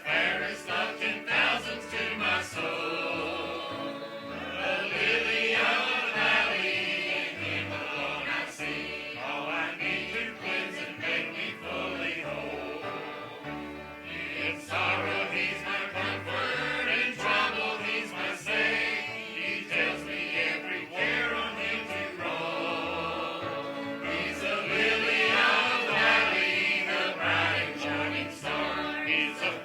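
Church choir singing with instrumental accompaniment, over a steady pulsing bass line.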